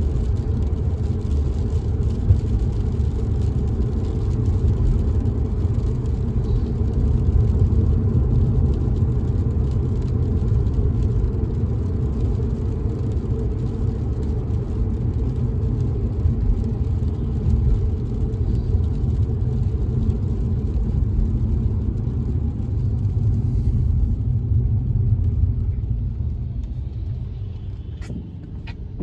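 Steady low road and engine rumble heard inside a car driving in the rain, with a faint hiss and patter of rain over it. About 24 s in the higher rain-and-tyre hiss stops, the rumble falls off in level, and two sharp clicks come near the end.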